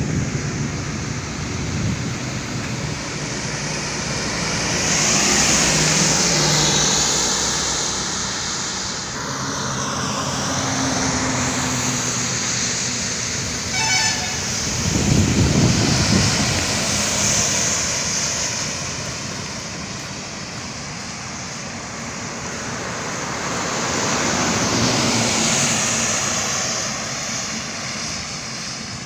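Highway traffic: vehicles passing, their road and engine noise swelling and fading several times, with a short horn toot about fourteen seconds in.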